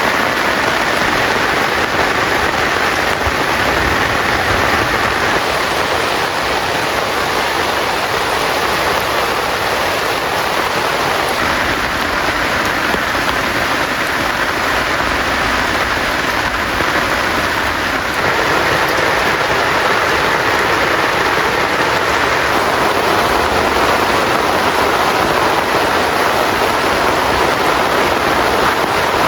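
Heavy rain falling steadily, a dense, even hiss that grows slightly louder about two-thirds of the way through.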